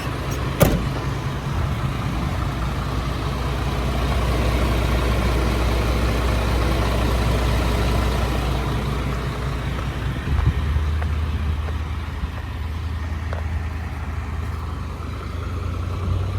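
A 7.8-litre Isuzu diesel in a GMC C6500 truck idling with a steady low hum, which steps to a slightly different note about ten seconds in. A sharp click comes just after the start.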